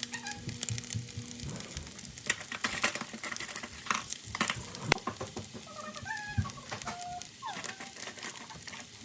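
Rice sizzling and crackling in a hot ttukbaegi earthenware pot, with irregular sharp pops. A few short high-pitched vocal sounds come in past the middle.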